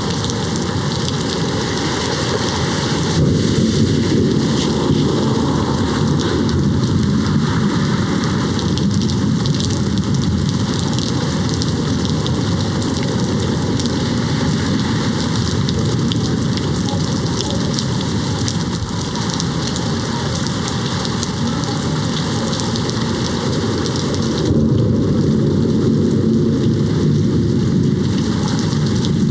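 Steady rain hitting a window, with distant thunder rolling in twice: a long low rumble starting about three seconds in and another near the end.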